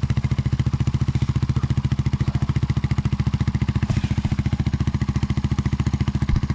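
Polaris RZR side-by-side's engine idling steadily with an even, rapid low pulse.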